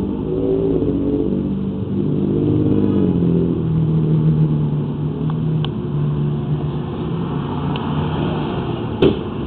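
A motor vehicle's engine running, its pitch shifting over the first few seconds and then holding steady. There is a sharp knock near the end.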